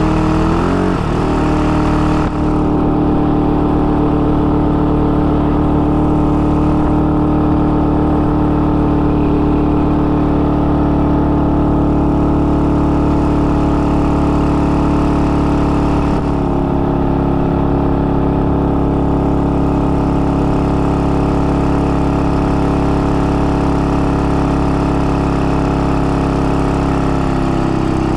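IZh-49 motorcycle's single-cylinder two-stroke engine running under way at a steady cruising speed, with a brief change in pitch about a second in and a slight drop later. The engine is freshly rebuilt with a 75 mm piston in a rebored cylinder and is being run in at moderate speed. The engine note falls away at the very end as the bike slows.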